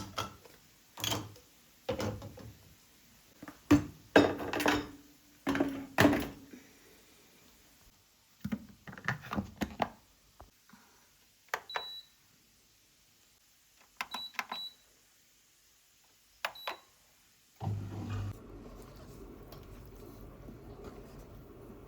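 Kitchen handling noises: a series of knocks and clatters, then a few short electronic keypad beeps, after which an appliance starts running with a steady low hum.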